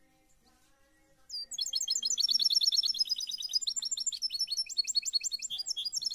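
A bird calling in a fast, unbroken run of high chirps, about ten a second. The calls start about a second in and stop abruptly near the end.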